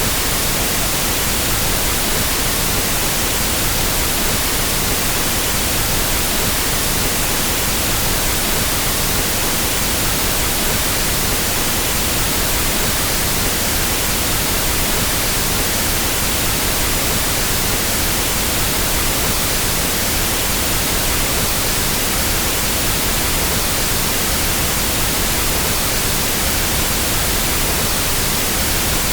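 Pink noise test signal used for equalizing sound systems: a steady, unchanging hiss spread evenly across all frequencies.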